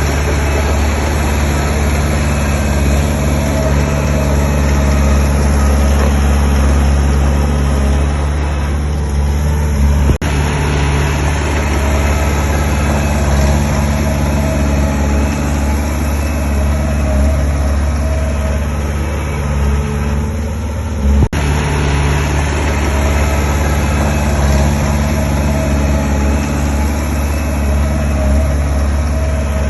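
Heavy diesel engine of earthmoving machinery running steadily with a deep, even drone. It breaks off for an instant twice, about ten and twenty-one seconds in.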